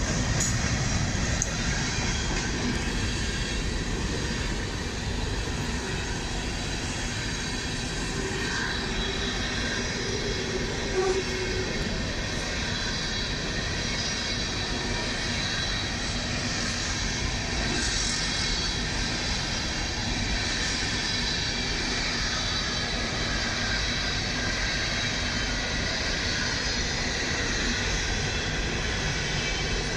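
Freight train of CSX open-top hopper cars rolling past, a steady rumble and clatter of wheels on the rails.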